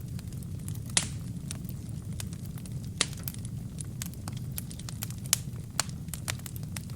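Wood fire burning in a fireplace: a steady low rumble of flame with frequent sharp crackles and pops of the burning logs, the loudest pops about one, three and five seconds in.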